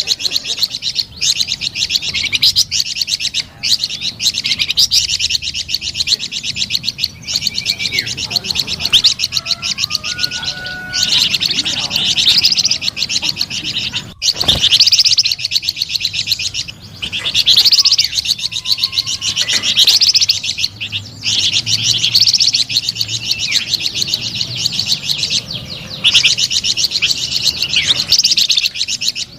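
Flamboyan songbird singing loud, fast trilling phrases of rapidly repeated high notes, broken by short pauses, with the occasional sliding whistle.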